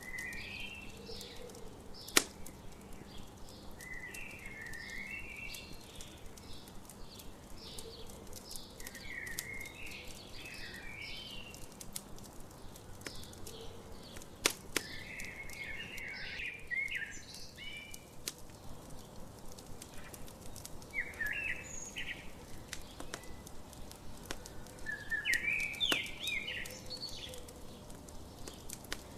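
Birds singing in repeated short chirping phrases over a crackling campfire. Sharp pops from the fire stand out, the loudest about two seconds in and another about halfway through.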